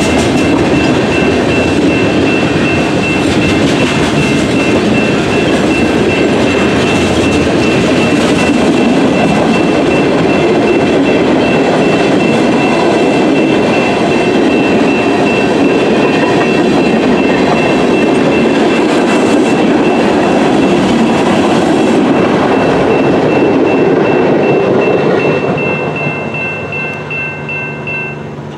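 Train rolling past on the rails: a steady loud rumble of wheels and cars, with a thin high steady whine over it. The noise fades near the end as the train moves away.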